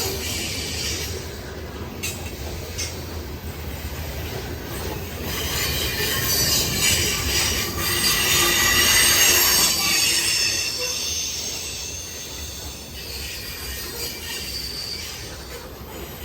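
Freight train of covered grain hopper cars rolling past, steel wheels squealing in several high tones over a low rumble, with occasional clacks. The squeal swells to its loudest about eight to ten seconds in, then eases.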